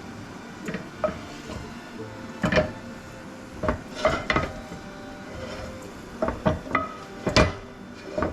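Kitchen utensils and cookware clinking and knocking against a pan and dishes: about ten irregular strikes, some ringing briefly.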